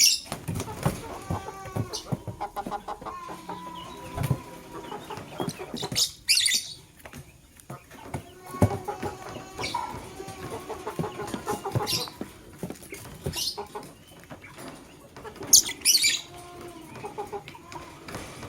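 Lovebirds chattering continuously, with several sharp, high-pitched shrieks breaking through at intervals.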